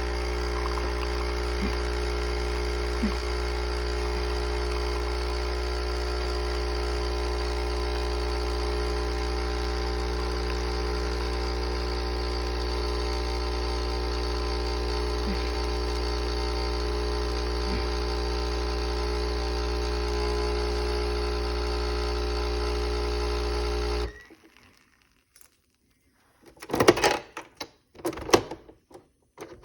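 Pod espresso machine's pump humming steadily while it brews, then cutting off suddenly about three quarters of the way through. A few knocks and clunks follow near the end.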